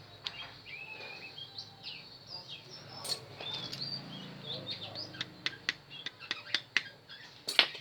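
Small birds chirping in quick short notes, with a run of sharp clicks and taps in the second half, the loudest one near the end.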